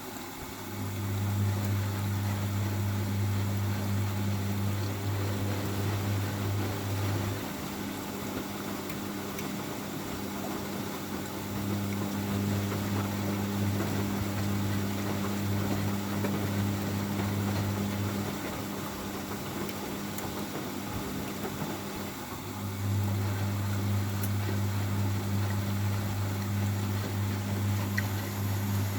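Hoover Baby washing machine in its first rinse: a low electric hum switches on three times, each for about six or seven seconds with pauses of about four seconds, over a steady background of machine and water noise.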